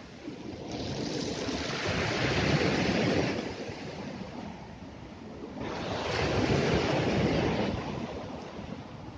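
Sea waves breaking and washing up on the shore twice, each wash swelling and fading over a few seconds.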